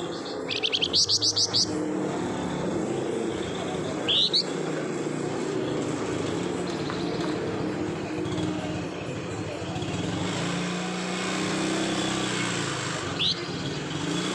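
Flamboyan songbird giving a quick burst of rapid chattering notes (crecetan) about half a second in, then single short rising whistles near four seconds and again near the end. A steady low hum runs underneath.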